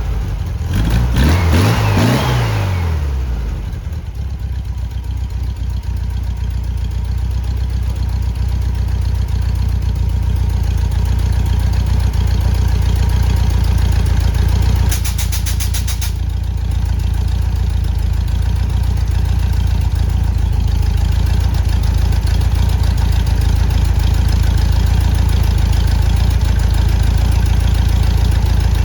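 Air-cooled Volkswagen Beetle flat-four engine revving up and back down in the first few seconds, then idling steadily.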